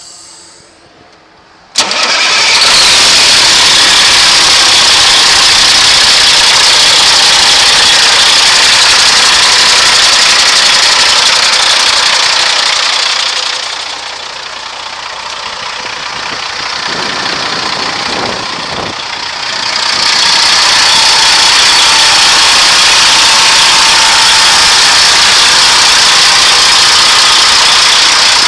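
Diesel engine of a 2007 Kenworth W900 truck tractor running loud and steady, coming in suddenly about two seconds in. It drops somewhat quieter for several seconds about halfway through, then comes back up.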